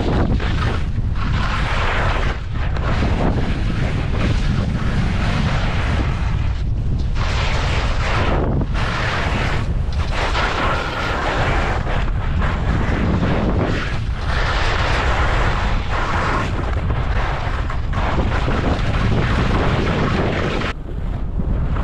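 Wind buffeting the microphone while skiing, with the hiss of skis sliding through snow swelling and dropping every second or two, in time with the turns.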